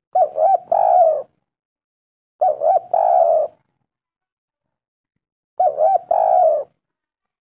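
Spotted dove (tekukur) cooing three times, each call two short coos followed by a longer one, with a few seconds of silence between calls.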